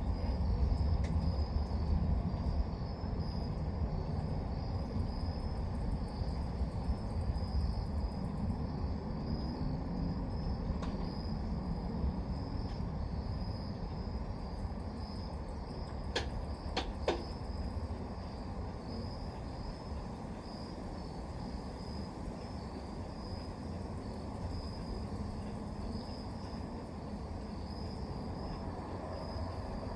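Crickets chirping steadily in a pulsing high band over a low, steady outdoor rumble. Two sharp clicks come a little past the middle.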